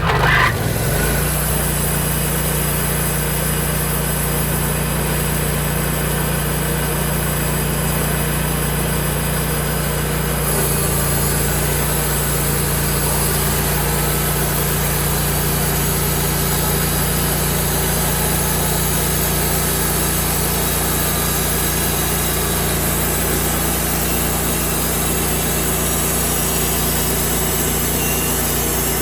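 Portable sawmill's engine coming up to speed in the first second, then running steadily at a constant pitch.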